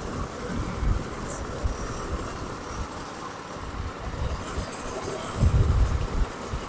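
Briggs & Stratton 700 series 161cc mower engine running steadily at fast throttle, now starting and running properly. A few louder low thumps come near the end.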